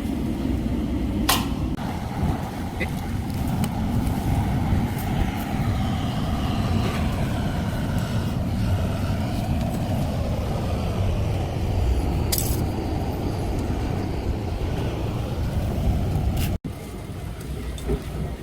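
Wind rumbling on the microphone outdoors, with a couple of sharp knocks, one about a second in and one about twelve seconds in.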